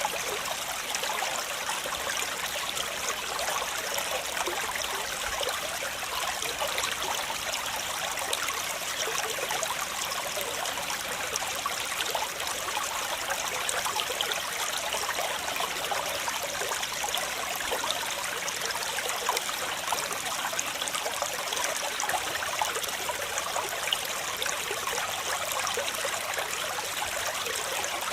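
Waterfall water rushing steadily, an even hiss with little deep rumble.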